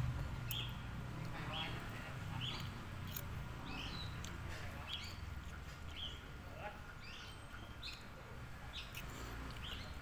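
A bird calling with short high chirps, about one a second, over a low steady rumble.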